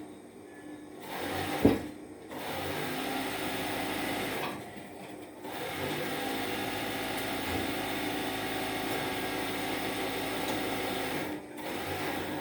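Steam iron fed by a steam boiler, hissing in two long bursts: one of about three seconds, then one of about five seconds.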